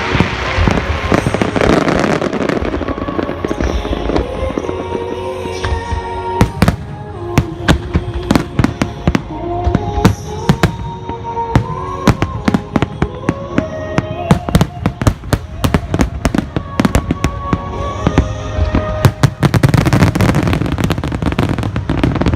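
Large aerial fireworks bursting in quick succession, with many sharp bangs and crackles over a slow melody played underneath. A dense rumbling volley swells near the start and again near the end.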